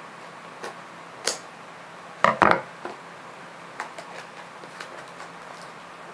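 A cardboard trading-card booster box being handled and opened: scattered light taps and clicks, with a louder double knock about two seconds in.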